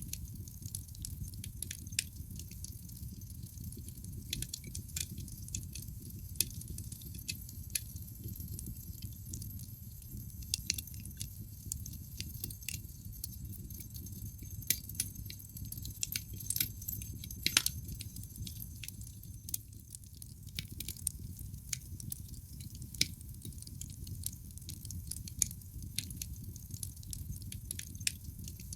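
Wood fire crackling in a fireplace: frequent sharp pops and snaps over a low, steady rumble of the flames. A run of louder pops comes a little past the middle.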